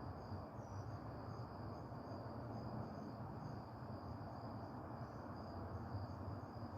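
Crickets trilling steadily, with a fainter, evenly pulsing insect call just above the main trill, over a low steady rumble.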